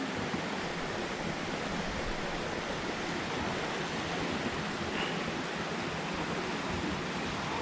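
Steady rush of flowing water from a rainforest stream.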